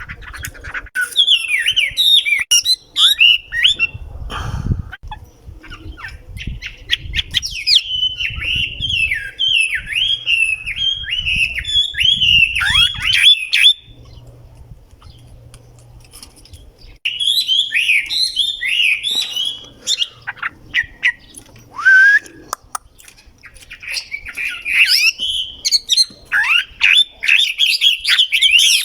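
A bird chirping in rapid bouts of short, high, downward-sweeping calls, with pauses of a few seconds between the bouts.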